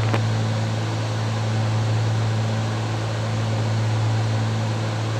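Steady drone of a Cessna 310's twin piston engines in flight, heard in the cockpit as a low, even hum under a constant hiss.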